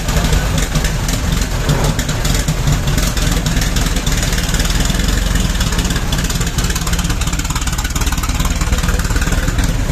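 The 1909 Blitzen-Benz's 21.5-litre four-cylinder engine running steadily. Its individual firing strokes come through as a fast, loud, even pulsing.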